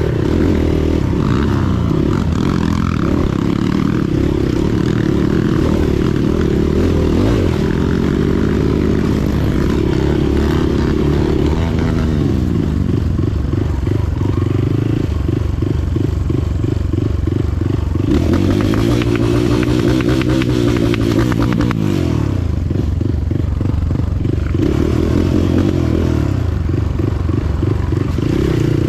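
Motorcycle engine running under way, its pitch repeatedly climbing and then dropping back as the rider accelerates and changes gear.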